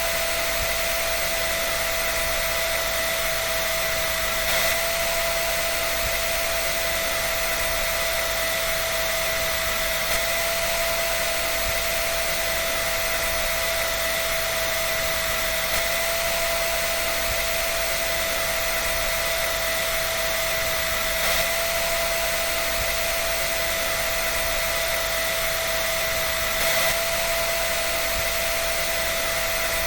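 A dryer running steadily: an even rush of air with a constant whine from its motor, swelling faintly about every five seconds.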